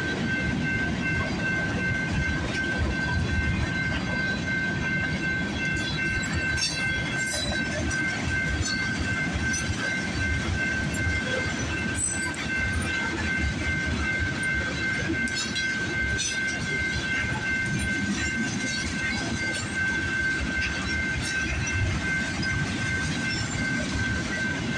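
CPKC freight train's covered hopper cars rolling past over a grade crossing: a steady rumble of steel wheels on rail, with scattered clacks as wheels cross joints, and a steady high-pitched tone running through it.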